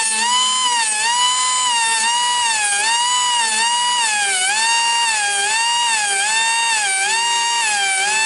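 Air-powered grinder whining at a high pitch while sharpening a sawmill bandsaw blade, its pitch dipping and recovering in a steady rhythm, about every two-thirds of a second, as the stone bears on each tooth in turn.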